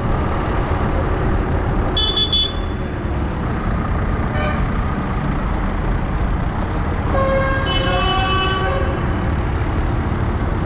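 Steady low rumble of tractor engines running, with a short horn toot about two seconds in and a longer horn tone from about seven to nine seconds in.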